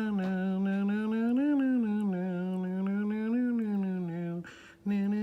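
A person humming a simple tune on long held notes, the pitch lifting briefly every couple of seconds; the humming stops about four seconds in and starts again half a second later.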